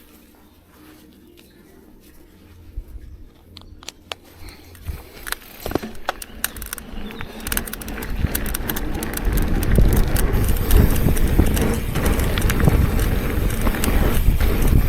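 Mountain bike setting off down a trail: scattered clicks and knocks from the bike over rough ground, then a loud rush of wind on the microphone and tyre rumble building from about eight seconds in as it gathers speed.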